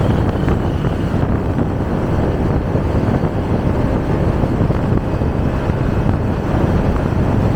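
Wind buffeting the microphone and a motorbike engine running at speed, a steady loud rumble.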